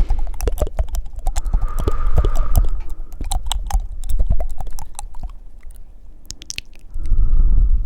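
Close-miked wet mouth sounds: a fast, irregular stream of tongue clicks and flutters, with breathy exhales about two seconds in and a louder breath near the end that rumbles on the microphone.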